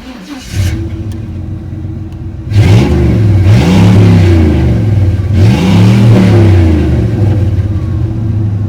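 Chevy Z71 pickup's throttle-body-injected engine catching and starting, idling, then revved twice, each rev climbing and falling back over about two seconds before it settles to idle. This is a test run just after a broken TBI wiring connector was replaced.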